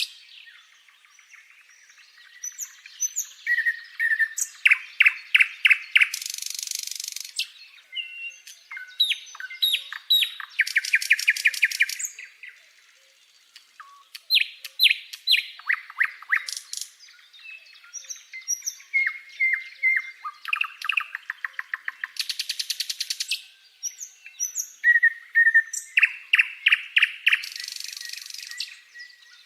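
Birds chirping and trilling, with quick runs of repeated notes and short high calls throughout.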